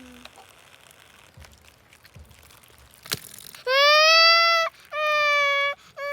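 A few soft knocks and a click, then, from a little past halfway, three loud, high-pitched, steady crying calls, each about a second long.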